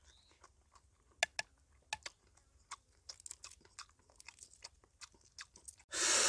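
Close-up chewing of a mouthful of boiled egg: soft, irregular wet clicks and lip smacks. Near the very end a sudden loud rushing noise starts.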